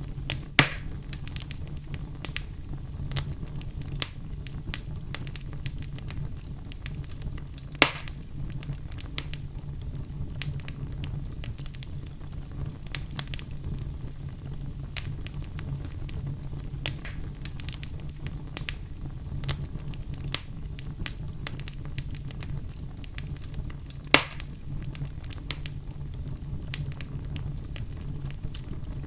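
Wood fire burning in a fireplace: a steady low rumble of flames with continual irregular crackles and three loud pops, one near the start, one about a third of the way in and one near the end.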